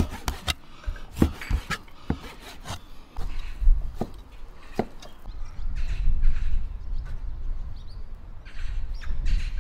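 Meat cleaver chopping pork belly on a plastic cutting board: sharp, irregular chops, one every half second or so through the first five seconds. Later, crows caw a few times over a low rumble.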